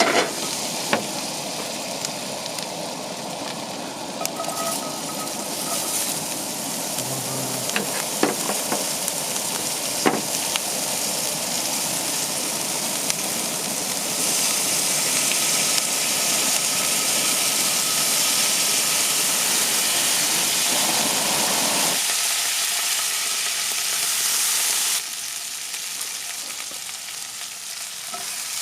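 Food frying in a cast iron pan: a steady, dense sizzle with a few sharp clicks in the first half. The sizzle changes in strength abruptly a few times.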